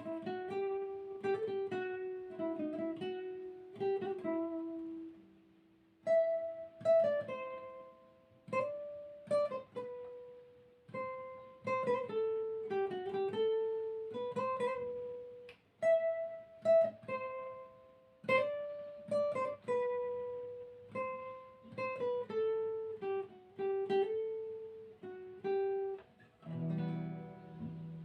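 Solo plucked string instrument playing an improvised melody, mostly single picked notes in short phrases with brief pauses between them; the playing stops near the end.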